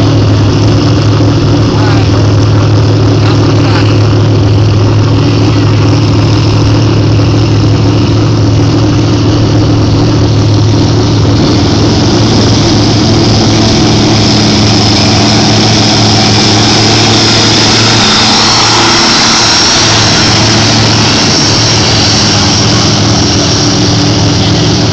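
Garden pulling tractor's engine running loud and steady under load, with a deep hum; about halfway through, a higher engine tone and a harsher hiss build up.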